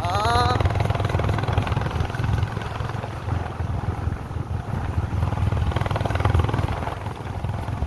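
Vehicle engine and road rumble, a steady low drone that rises and falls while driving, with a brief scrap of voice about half a second in.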